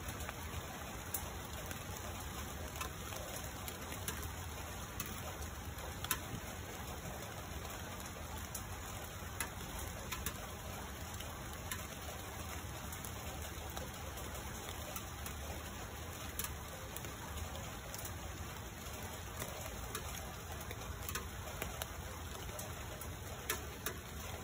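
Steady rain falling on tree leaves, with scattered sharp taps of single drops.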